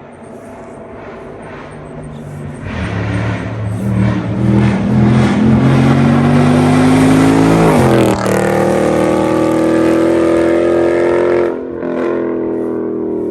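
Modified Camaro ZL1 1LE's supercharged V8 accelerating hard, climbing in pitch and loudness to a very loud high-rpm run. There is a brief break about 8 seconds in, and it eases off near the end.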